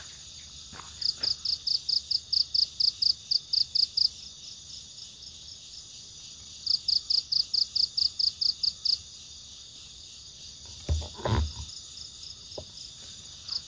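Insects calling in a forest: a steady high-pitched drone, with two runs of loud, rapid chirps at about four a second. The first run lasts about three seconds, starting a second in; the second lasts about two seconds, in the middle. A couple of soft knocks near the end.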